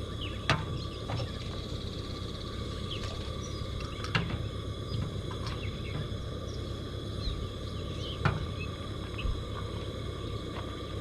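Outdoor ambience: a steady low rush of noise under a steady high drone, with scattered short bird chirps and three sharp clicks, about half a second, four seconds and eight seconds in.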